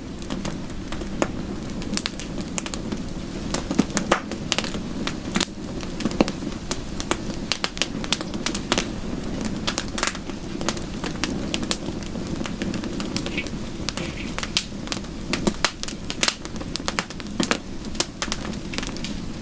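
Wood fire crackling, with many sharp, irregular pops and snaps over a steady low rush of soft rain.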